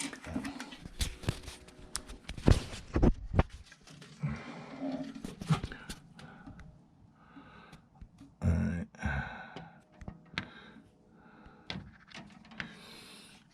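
Handling noises: a quick run of sharp clicks and knocks in the first few seconds, then scattered lighter knocks and scrapes, with a short low murmur about eight seconds in.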